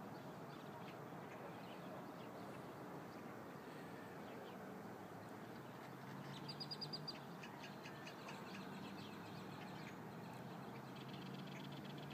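Faint birds chirping, with a quick run of five or six high, clear notes about six and a half seconds in. A faint low hum underneath in the second half.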